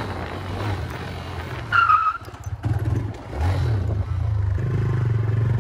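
A small single-cylinder motorcycle engine, a TVS Raider 125, running under way. It eases off at first, picks up with a rising note a little past three seconds in, then runs steadily. A short high tone sounds about two seconds in.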